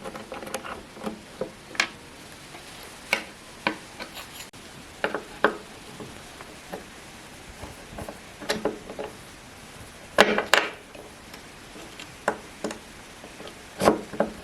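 Irregular clicks, taps and knocks of metal parts being handled on an antique sewing machine under restoration, about a dozen separate hits, the loudest cluster about ten seconds in.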